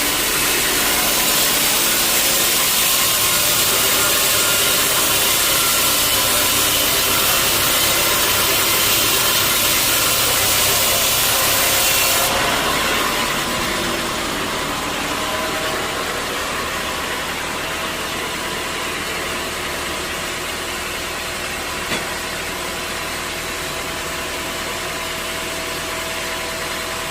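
Sawmill machinery running steadily, with a loud hiss for roughly the first half that then falls away, leaving a quieter steady hum; a single sharp click a little past two-thirds of the way through.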